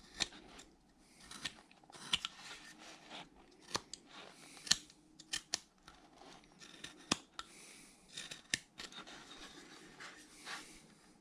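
A carving knife paring wood by hand: a string of short, sharp cuts and clicks at an irregular pace.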